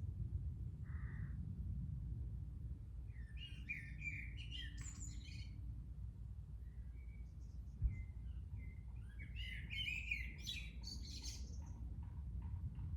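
Songbird chirping in two quick, busy phrases, about three seconds in and again about nine seconds in, over a steady low rumble. A single short thump near eight seconds is the loudest moment.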